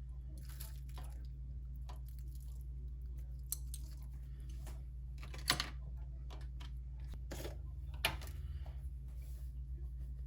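Small kitchen handling noises: scattered sharp clicks and knocks with soft rustling over a steady low hum, the loudest knocks about halfway through and again near the end.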